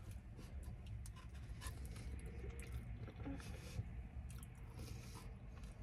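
Soft chewing of soggy chili cheese fries, with faint scattered clicks of a plastic fork in the paper tray, over the steady low hum of the car's engine running.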